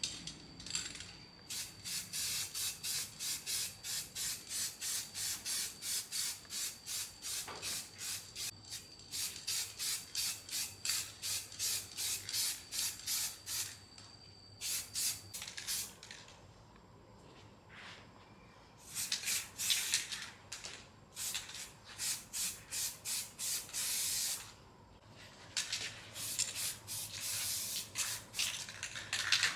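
Rhythmic back-and-forth abrasive strokes, about two a second, with a couple of short pauses: a part being scrubbed or sanded by hand.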